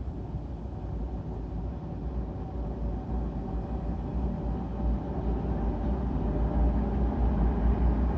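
A 2M62 two-section diesel locomotive approaching, its diesel engines running with a deep rumble that grows steadily louder.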